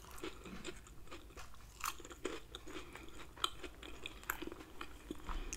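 A person chewing a mouthful of chopped cheeseburger sub on a toasted roll, with scattered small crunches and clicks and a few louder crunches.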